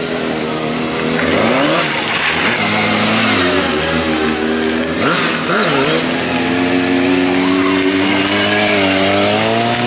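Motorcycle engine revving in short rises and falls, over a steady engine drone.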